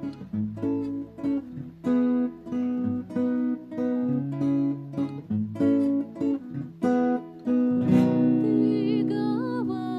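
Acoustic guitar playing a melody of plucked notes over a bass line, about two notes a second. Near the end it holds a longer note that wavers in pitch.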